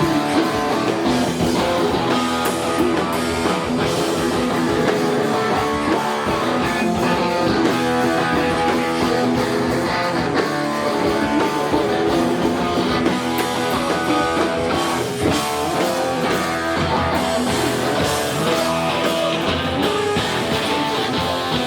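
A rock band playing live, with strummed guitars in front and a steady beat running throughout.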